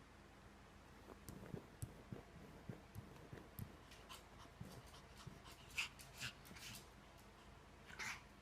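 Near silence with faint scattered soft taps and brief rustles.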